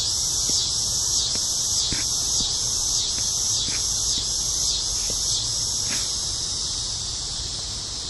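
Night chorus of crickets and other insects: a dense high-pitched trill that pulses about twice a second, easing slightly near the end.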